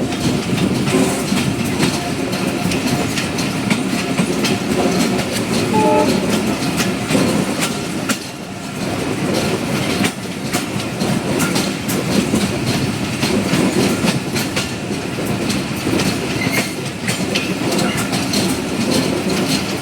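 Dhalarchar Express passenger train running, with a steady rumble and rattle and wheels clicking over the rail joints.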